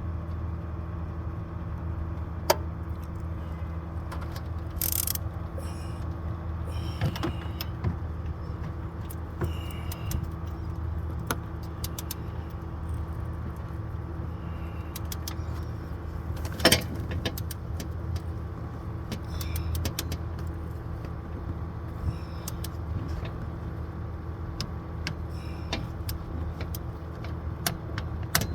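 Ratchet and torque wrench clicking and clanking while the belt tensioner bolt is tightened toward 37 foot-pounds, with scattered sharp metal clicks and a few louder knocks. Under it runs a steady low hum.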